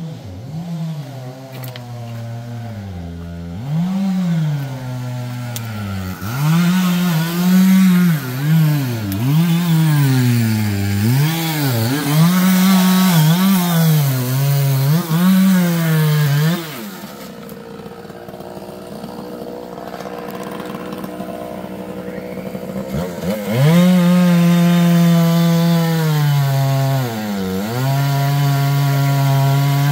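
Two-stroke chainsaw cutting black walnut wood. The engine pitch dips again and again as the chain bites and recovers between dips, eases off for several seconds in the middle, then comes back up to a steady high rev.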